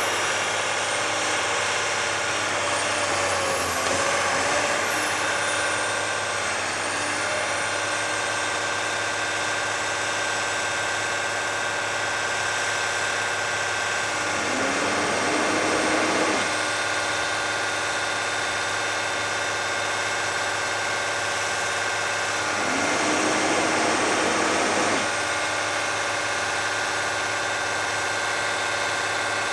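Feller buncher's diesel engine running steadily. Two louder rushing surges of about two seconds each, each starting with a short rising tone, come in about halfway through and again near three quarters through.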